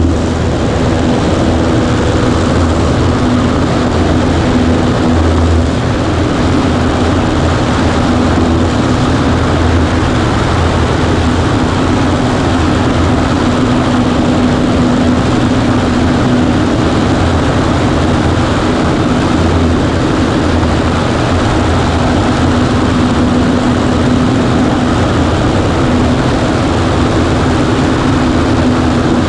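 Cessna 140A's piston engine and propeller droning steadily, a constant hum with no change in pitch or loudness.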